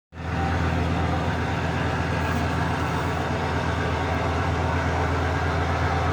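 Heavy engine of a wooden cargo boat running steadily at constant speed, a deep even drone.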